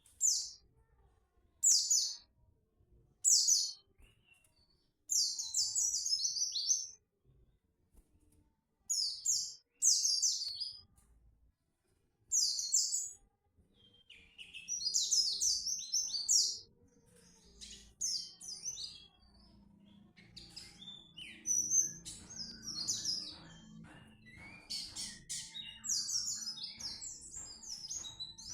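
A pleci (white-eye) singing, with canary-like chirps and trills: short separate bursts at first, then longer unbroken twittering from about halfway, over a faint low steady hum.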